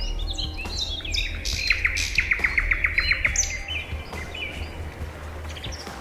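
Several small birds chirping and calling. About a second and a half in, one bird gives a rapid trill of about a dozen notes. A low steady hum runs underneath.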